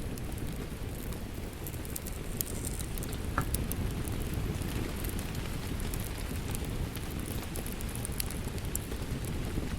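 Steady rain with a wood fire crackling over it: a constant low rush and scattered sharp pops and snaps, one louder snap about three and a half seconds in.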